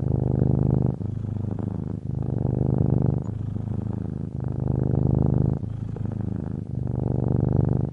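Domestic cat purring loudly and steadily, the purr swelling and easing in turn about once a second with its breathing in and out.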